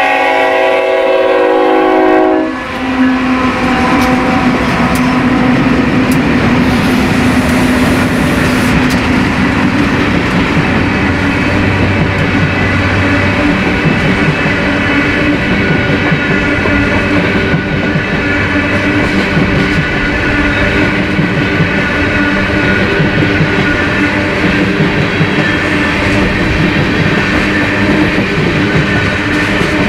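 A BNSF freight train's horn sounds a chord of several notes for about two and a half seconds, then the diesel locomotives and train pass close by with a steady engine drone and the noise of wheels on rail.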